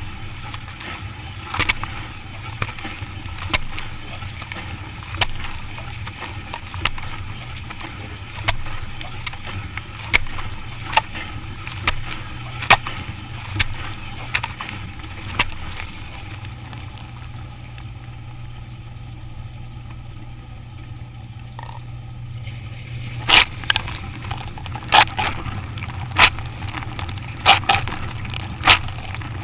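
A machine running with a steady low hum, with sharp clicks or knocks every second or two. The knocks thin out in the middle, then come quicker and louder near the end.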